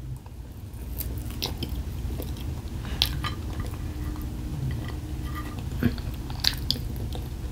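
A person chewing food, with a few short crunches and clicks scattered through, over a steady low room hum.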